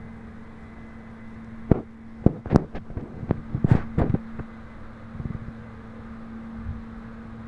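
A quick run of sharp knocks and taps, about a dozen in two and a half seconds, with a few fainter ones later, over a steady low hum.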